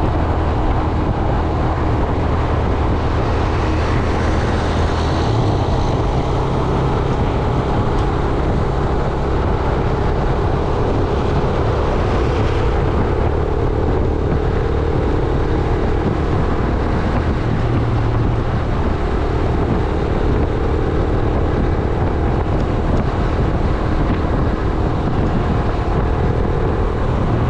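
Yamaha YBR 125G's single-cylinder four-stroke engine running under way, its hum stepping in pitch a few times as the speed changes, over steady wind and road noise.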